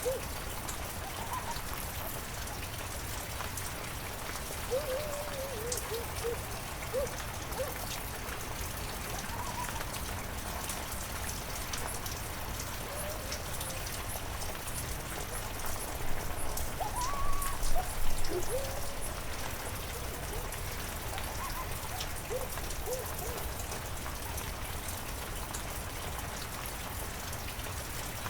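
Heavy rain falling steadily, with drops pattering on surfaces. Short, warbling calls from some animal come and go over the rain, loudest in a cluster a little past halfway.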